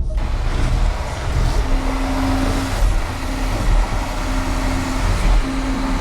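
Volvo XC40 crossover's engine working hard under load while trying to climb a snowy slope. It sounds as a deep rumble with a steady hiss over it and a humming tone that comes and goes several times.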